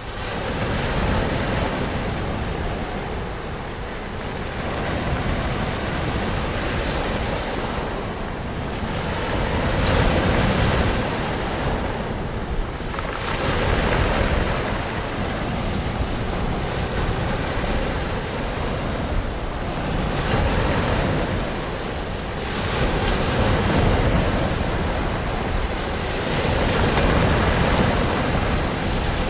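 Ocean waves breaking on a shore, a steady wash of surf that swells and recedes every few seconds.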